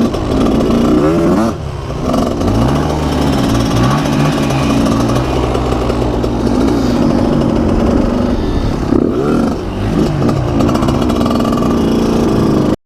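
Dirt bike engine running under load while being ridden, its pitch repeatedly climbing and dropping back as the throttle is worked, about two seconds in and again near the end.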